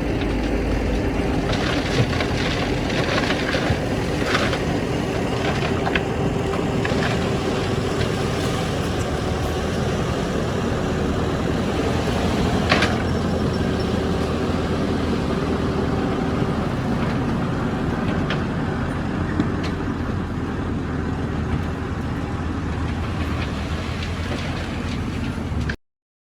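Heavy diesel earthmoving machinery running steadily under load, with scattered metallic clanks and knocks. The sound cuts off abruptly near the end.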